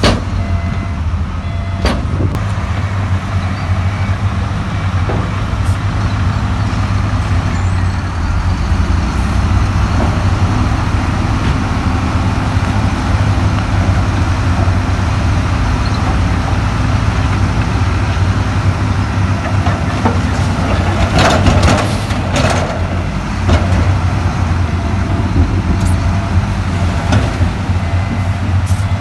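Heavy diesel earthmoving machinery running steadily under load, with a deep engine rumble. A reversing alarm beeps at the start and again near the end, and a burst of clattering comes about 21 seconds in.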